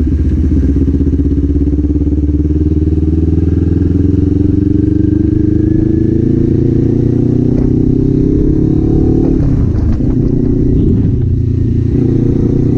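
Kawasaki Z400 parallel-twin engine and exhaust under way, its pitch climbing slowly as the bike accelerates. About nine and a half seconds in the pitch drops briefly at a gear change, then climbs again.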